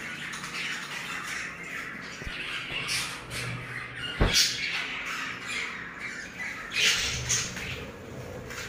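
Budgerigars chattering and squawking in a breeding colony, a run of short high calls, with a single sharp knock about four seconds in.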